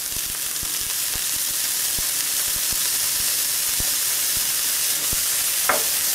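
Diced ham and chopped onions sizzling in hot oil in a frying pan: a steady hiss that grows a little louder over the first second or so as the ham goes in, with scattered light clicks. Near the end a wooden spoon scrapes through the pan.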